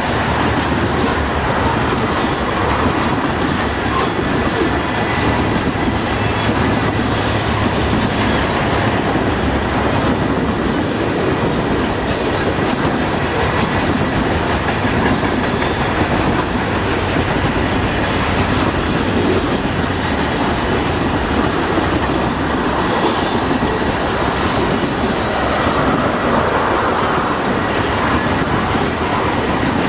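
A freight train's cars rolling steadily past, wheels clacking over the rail joints.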